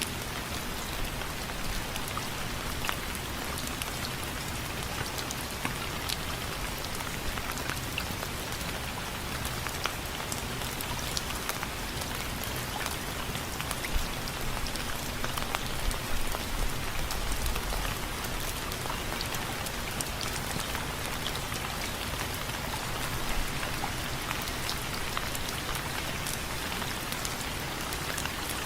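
Steady rain with many close, distinct drops ticking on window frames, a few louder drops standing out.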